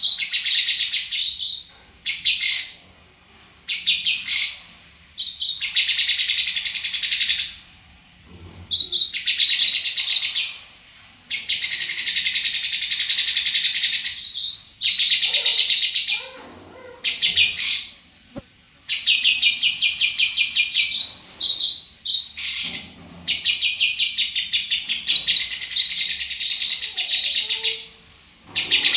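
Songbird singing in repeated phrases of rapid, high trills, each a second to a few seconds long with short pauses between.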